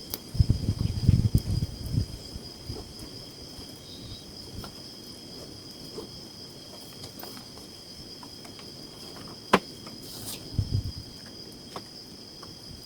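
Jungle insects calling steadily, a continuous chorus of two high-pitched droning tones. Low thuds and rustling come in the first two seconds and again about ten and a half seconds in, with a single sharp click about nine and a half seconds in.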